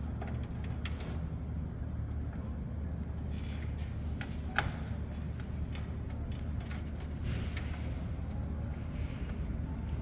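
Small clicks and rustles of SATA cable connectors being handled and plugged in during computer reassembly, with one sharper click a little before the middle, over a steady low hum.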